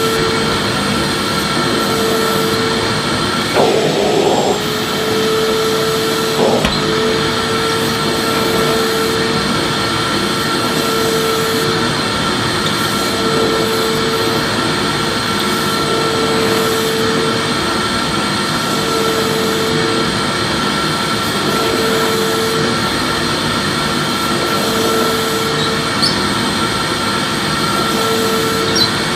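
Vacuum cleaner motor running steadily: a continuous whooshing rush with a humming tone that wavers every couple of seconds. A brief rattle comes about four seconds in and a click a few seconds later.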